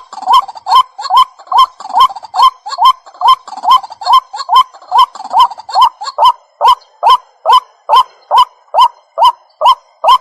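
White-breasted waterhen calling: a monotonous, unbroken series of short hooked notes, about two and a half a second. This is the waterhen's repetitive call, used as a lure call to draw the birds in.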